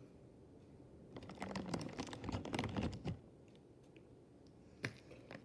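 Chewing crunchy corn-and-potato snack fries close to the microphone: a dense run of crackling crunches lasting about two seconds, then a single sharp click near the end.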